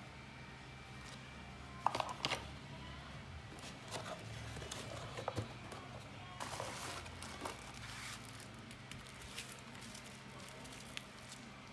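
Packaging being handled during an unboxing: rustling and crinkling with scattered small clicks and knocks, in clusters about two seconds in, around four to five seconds in and near seven seconds in, over a steady low hum.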